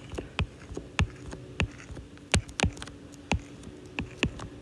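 Computer keyboard keys pressed one at a time, about nine separate sharp clicks at an uneven pace as a short binary code is typed in, over a steady low electrical hum.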